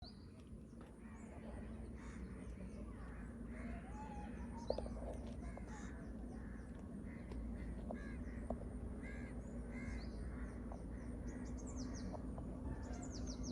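Crows cawing and smaller birds chirping and trilling over a steady low hum.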